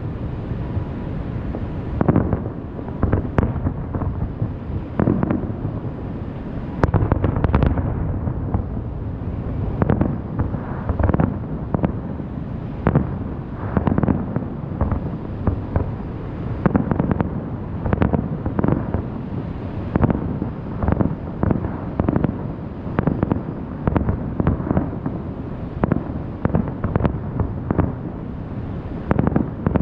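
Aerial fireworks shells bursting one after another, many booms a second or two apart, over a steady low rumble.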